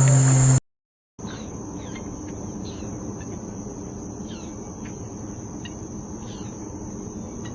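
Steady high insect trill, like crickets, with scattered short bird chirps over it, starting after a brief silence about a second in. Before the silence, a louder, different sound cuts off suddenly.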